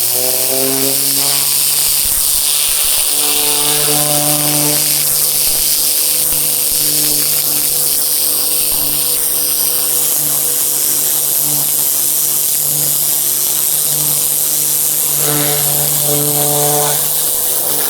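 Pressure washer running under load while spraying: a steady motor or engine hum with a loud hiss from the water jet. The hum climbs in pitch at the very start as the machine comes up to speed, then holds steady.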